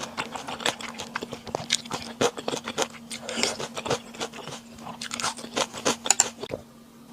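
Close-miked chewing and crunching of food: a dense run of quick wet clicks and crunchy bites that thins out near the end, over a faint steady hum.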